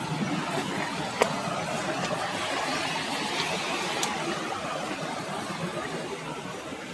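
Steady rushing noise of flowing water, with two sharp clicks about one and four seconds in.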